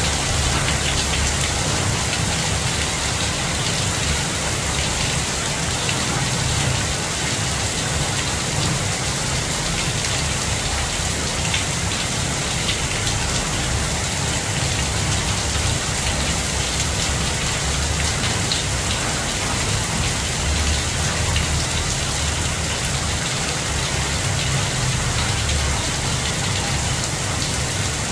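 Heavy rain pouring onto tree leaves: a steady hiss scattered with small drop ticks, over a low rumble.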